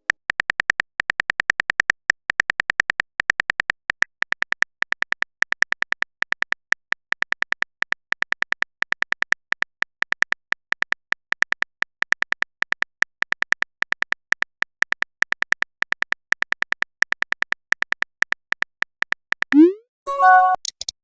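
Typing sound effect: a long run of short, identical electronic clicks, several a second, like keys tapped in a phone chat. Near the end a quick rising swoop and a short chime of a few notes, like a message-sent notification.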